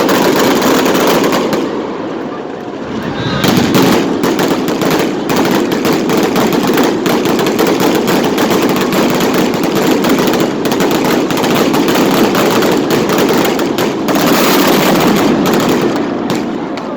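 Fireworks display: a dense, rapid barrage of bangs and crackling shell bursts, easing off briefly about two seconds in, then carrying on thickly before tailing off near the end.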